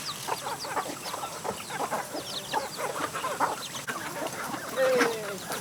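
A flock of chickens clucking, many short calls overlapping, with one longer falling call about five seconds in.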